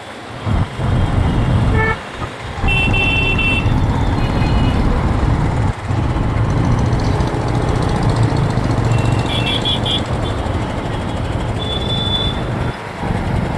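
City road traffic heard from a moving motorbike: a steady low engine and road rumble, with other vehicles' horns tooting briefly a few times, about three seconds in, near ten seconds and again near twelve.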